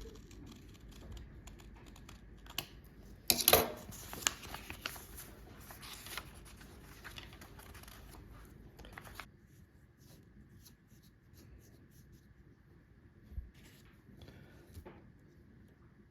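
Paper being handled and cut with scissors: rustling and small snips, busiest in the first nine seconds with a louder burst about three seconds in, then only sparse clicks.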